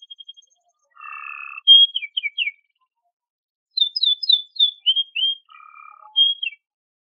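Canary singing in short separate phrases: a buzzy note about a second in, then quick downward-sliding whistled notes, a pause, and a run of falling whistles with another buzzy note near the end.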